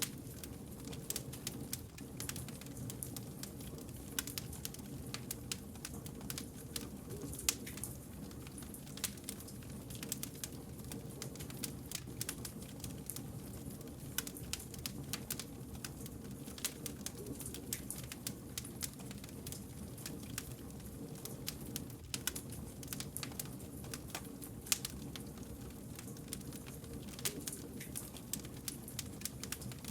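Wood fire crackling, with frequent sharp irregular pops and snaps over a steady low rumble of burning logs.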